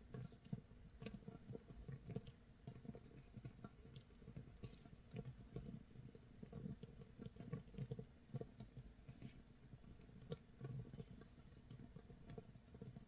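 Makgeolli base brew (mitsul) fermenting in a crock 24 hours in: a faint, dense, irregular crackle of tiny pops as gas bubbles burst, like rain pattering or rice crust toasting.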